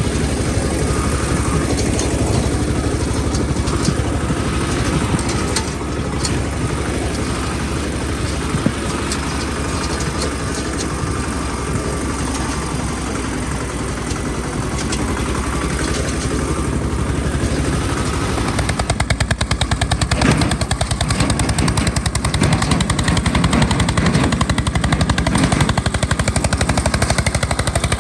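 Eicher 242 tractor's single-cylinder diesel engine running with a rapid, even beat, getting louder about two-thirds of the way through.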